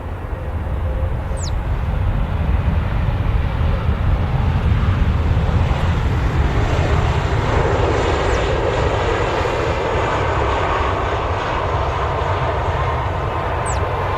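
Jet airliner's engines rumbling loudly as it lands and rolls out on the runway. The rumble swells about two seconds in, and a steady high whine comes in near the end.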